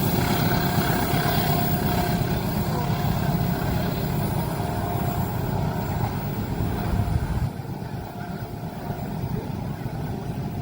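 Train passing a level crossing: a steady, loud rumble with a faint high whine over it. The rumble drops off suddenly about seven and a half seconds in.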